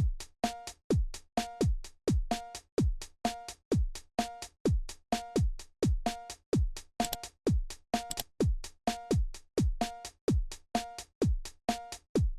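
Electronic background music: a drum-machine kick drum about twice a second with a short synth note between the beats, and two brighter cymbal-like hits about seven and eight seconds in.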